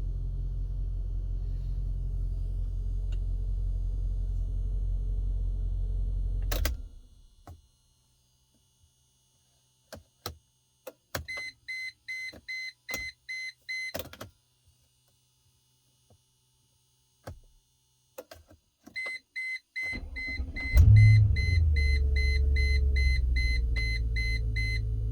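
The Mercedes C43's 4.3-litre V8 idling, then switched off about seven seconds in. Scattered clicks follow, then a dashboard chime beeping rapidly. Near twenty seconds in the engine is cranked and fires, revving briefly and settling back to idle while the chime beeps again.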